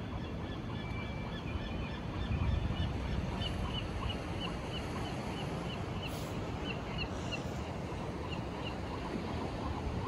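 Steady low rumble and hiss of wind and water along the bay, with a bird giving a quick series of short, high calls, a few a second, through the middle.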